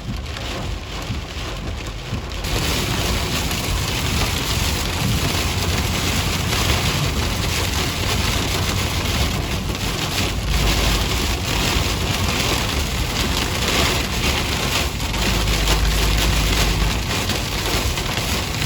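Heavy rain drumming on a moving car, over a low rumble from the road, with the rain getting suddenly heavier about two seconds in.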